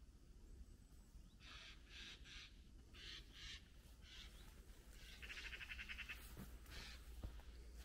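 Faint harsh bird calls in a series of short bursts, then a rapid rattling call about five seconds in.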